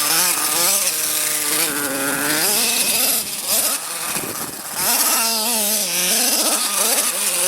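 Small nitro glow engine of a CEN Genesis GST 7.7 RC monster truck revving up and down again and again, its pitch rising and falling as the throttle is worked, easing off briefly twice in the middle.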